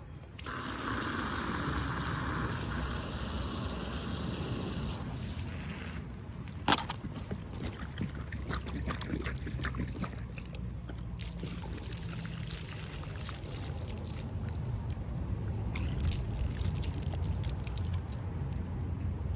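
Garden hose spraying water into a push mower's removed fuel tank to rinse out the dirt and old gas. The spray cuts off about six seconds in, with a sharp click just after, and then water sloshes and drains out of the tank.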